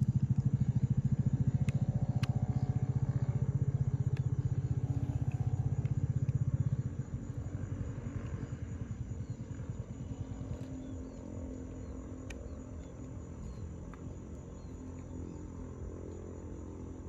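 A small engine running with a steady pulsing hum. It is loud for about the first seven seconds, then fainter for the rest, with a few faint clicks.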